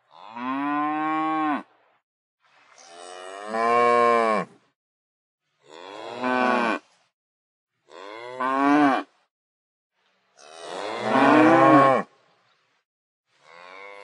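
A cow and calves mooing: six separate moos, each lasting one to two seconds, with short pauses between them. Several calls drop in pitch as they end, and the one about two-thirds through is the loudest.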